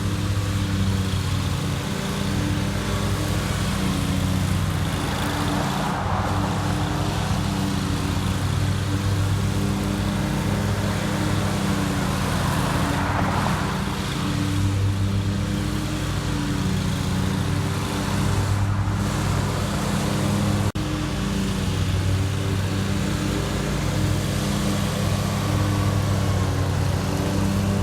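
Riding lawn mower engine running steadily at cutting speed, with a louder rushing swell twice, about six and thirteen seconds in.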